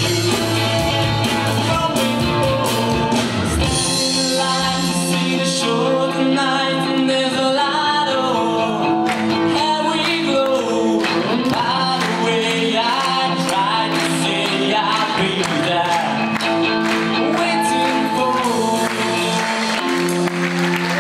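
A live rock band playing with a singer: drums and bass hit for about the first four seconds, then drop away, leaving held chords under the singing.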